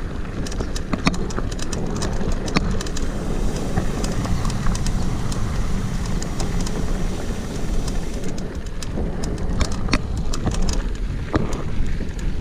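Mountain bike being ridden, with wind buffeting the microphone as a steady low rumble, and frequent sharp clicks and rattles from the bike that come thicker near the end.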